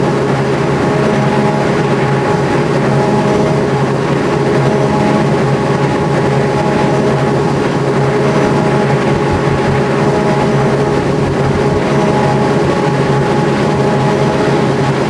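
Lamborghini Revuelto's 6.5-litre V12 running at a steady speed, a constant drone without revving.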